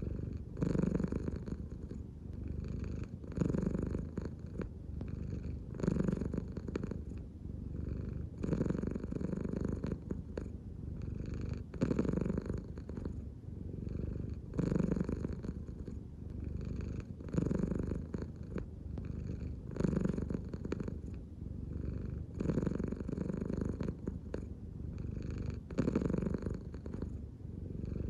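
American Shorthair cat purring up close, a continuous low rumble that swells about every two and a half to three seconds, in and out with each breath as the belly rises and falls.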